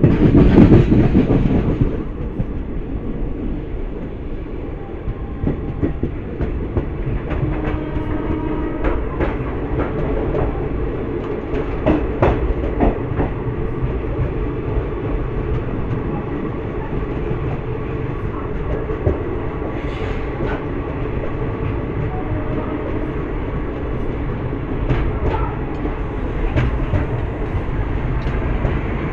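Passenger express train entering a station: a steady low rumble of wheels on the track, with scattered sharp clicks from the rail joints. It is louder for about the first two seconds.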